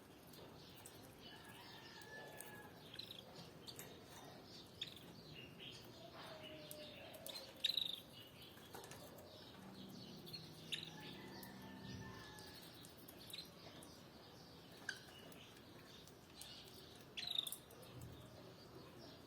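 Canaries giving faint, scattered short chirps and calls, with a few brief gliding notes and the odd sharp click; the loudest chirps come at about 8 s and about 17 s.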